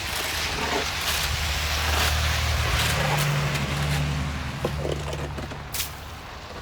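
A car driving past: a low engine hum with tyre noise that swells over the first couple of seconds and then fades away. A short sharp click comes near the end.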